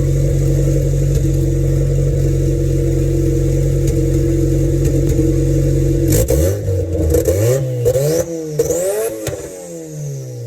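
Turbocharged 1995 Honda Civic engine, straight-piped out the front fender, running at a steady speed for about six seconds, then revved up and down about four times in quick succession before the revs fall away near the end.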